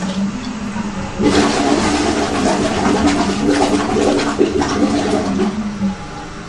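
Water rushing and bubbling through the sewer line, surging in about a second in and fading out near the end, over a steady low machine hum.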